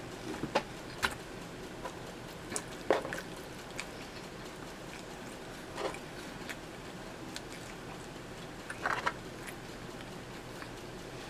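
Someone chewing a mouthful of pizza with the mouth closed: scattered soft mouth clicks and smacks over a steady hiss, with a short run of louder ones near the end.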